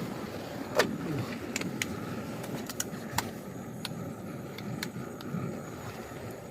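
Strong wind buffeting the microphone in uneven gusts, with about eight sharp clicks and taps scattered through it.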